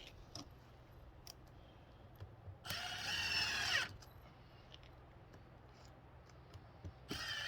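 Power drill driving screws into plywood: two short runs of the motor whine, each about a second long, the pitch dropping as each run stops.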